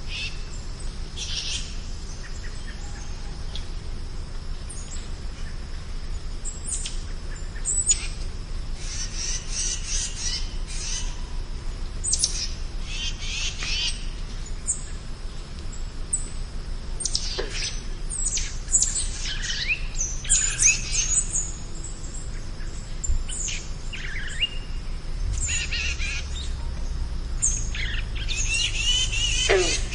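Spring birdsong: several birds singing and calling, with chirps, trills and whistled phrases coming every second or so. A steady low rumble runs underneath and grows a little louder about 25 seconds in.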